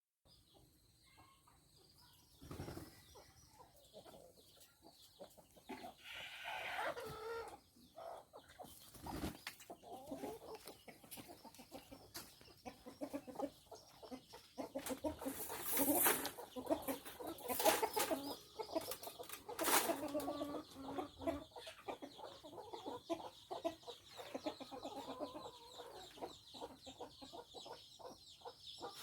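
Chickens clucking over and over, with a falling squawk about six seconds in and a few sharp knocks, the loudest between about 16 and 20 seconds in.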